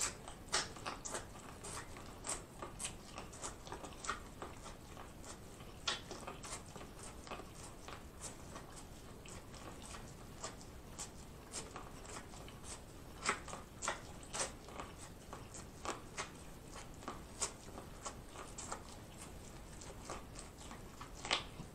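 Biting kernels off a corn on the cob and chewing them: irregular crisp clicks and crunches, a few a second, with some louder bites.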